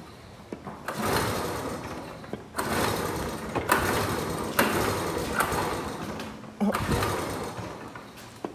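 Suzuki dirt bike's starter cranking the engine in about four bursts of a second and a half to two seconds each, the engine never catching: the bike won't start.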